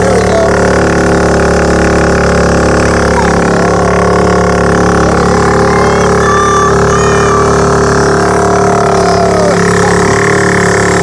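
Small bumper-boat motors running with a steady, unchanging drone.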